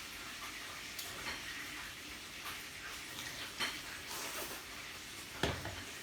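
Meat sizzling on a yakiniku grill, a steady hiss broken by a few small clicks and one louder knock about five and a half seconds in.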